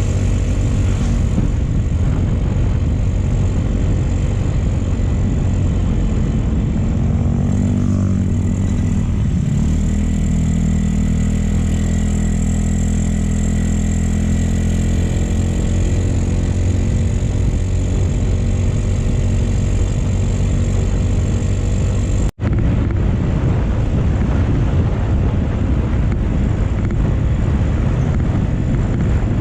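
Motorcycle engine running under way, its pitch shifting and climbing about eight to ten seconds in before settling steady. The sound drops out for an instant about 22 seconds in.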